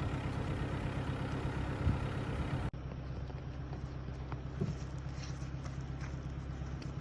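A vehicle engine idling with a steady low hum. An abrupt cut about two and a half seconds in makes it a little quieter and duller.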